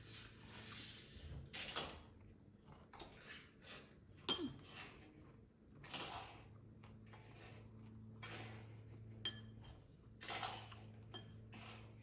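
Cutlery and dishes clinking: a few sharp, ringing clinks of utensils against a plate or bowl, spaced a few seconds apart, among softer scraping and rustling bursts, over a steady low hum.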